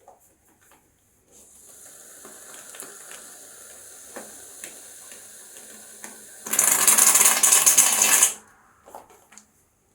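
Aerosol can of shaving foam: a soft steady hiss with small crackles from about a second in, then a much louder spray hiss for about two seconds, then a few faint clicks.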